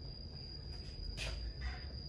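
Faint clinks of steel hand tools on metal, one about a second in and a softer one near the end, over a steady high-pitched whine and a low hum.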